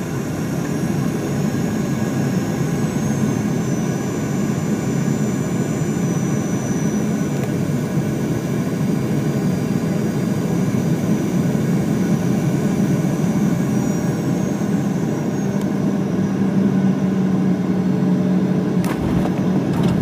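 Jet airliner cabin noise on descent: a steady engine and airflow drone with a high engine whine that falls in pitch twice. A short thump comes near the end.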